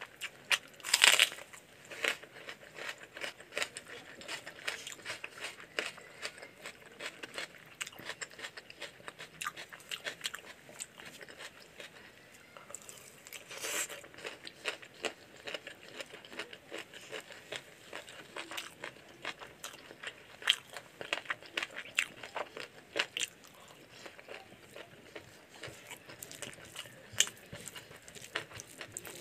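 Eating by hand: a loud crunch of biting into raw red onion about a second in, then steady chewing of curry and rice with many small wet clicks, and another crunchy bite near the middle.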